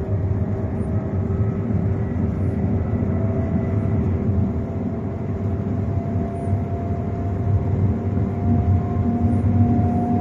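Shanghai Maglev train running at speed while accelerating, heard inside the cabin: a steady rushing rumble with a faint whine that slowly rises in pitch as the train picks up speed.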